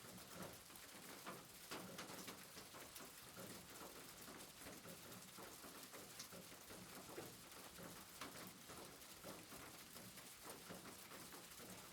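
Faint, steady rain pattering, with many small drops ticking.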